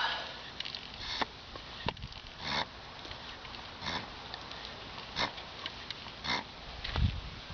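Hand-operated oil extractor pump being worked, with a short hiss of air on each stroke, five strokes a bit over a second apart, building vacuum to suck engine oil up out of the dipstick tube. A low thump near the end.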